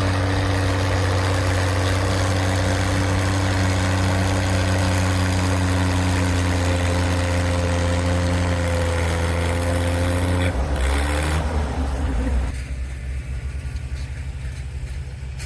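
Antique farm tractor engine running hard at steady high revs, as when pulling a transfer sled down the track. About ten seconds in, the revs drop; a second or two later the sound falls away to a quieter run.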